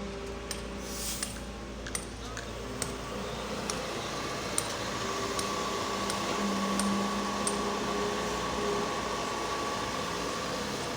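Excavator running: a steady engine hum with a hydraulic whine that grows stronger about halfway through, and scattered light metallic clicks.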